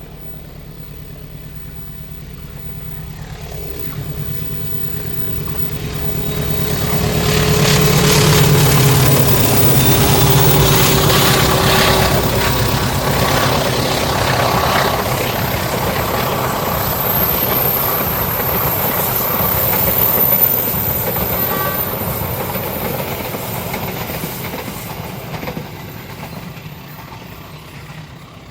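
Diesel-hauled passenger train passing close by. The locomotive's engine hum swells over several seconds, and a tone drops slightly in pitch as it goes past. Then comes the clatter of the carriage wheels over the rail joints, which fades away near the end.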